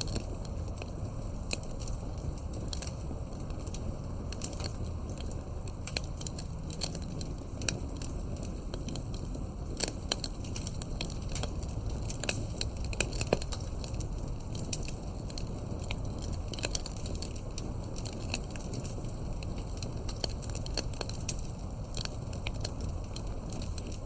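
Campfire crackling, with frequent irregular sharp pops and snaps of burning wood over a steady low rumble.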